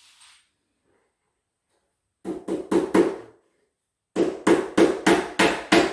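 Hammer tapping small nails into the wooden closet unit's corner gussets: four quick blows about two seconds in, then a steady run of blows about three a second.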